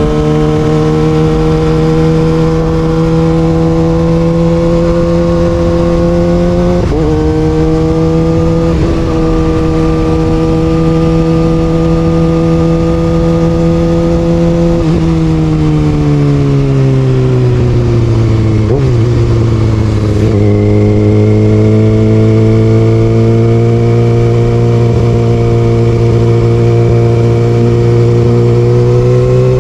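Kawasaki Ninja ZX6R inline-four with an Austin Racing exhaust, heard while riding. It holds a steady pitch under throttle with short upward jumps, then falls in pitch over a few seconds as it slows. It holds at a lower steady pitch and rises again at the end.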